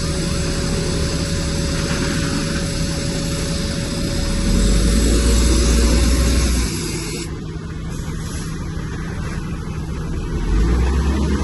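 Heavy earth-moving machine's diesel engine running, its deep rumble swelling about four seconds in and again near the end. A steady hiss over it drops away about seven seconds in.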